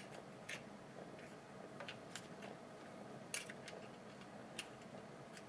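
Faint, irregular clicks and taps of small parts being handled, about half a dozen in all; the sharpest come at the very start and a little over three seconds in.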